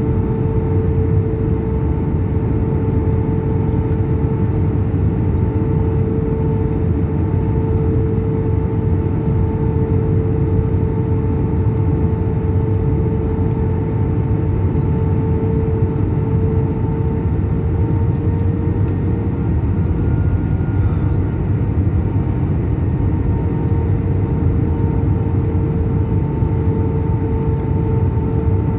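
Steady cabin noise inside an Airbus A319 in flight: a low rumble of airflow and engines with a constant hum tone running through it.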